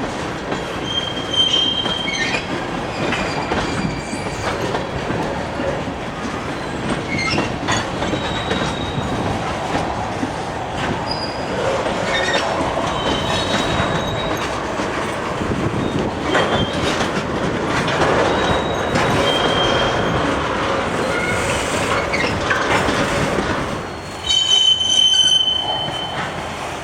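Train cars rolling past on the main line, steel wheels clattering over the rail with scattered high-pitched wheel squeals. A louder squeal comes about 24 seconds in, and the sound eases off near the end.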